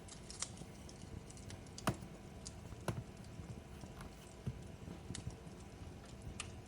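Fireplace fire crackling: irregular sharp pops and snaps over a steady low rumble, with the two loudest pops about two and three seconds in.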